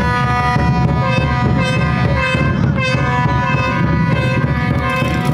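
A horn blown on one long, steady note that is held almost unbroken, over a low rumble.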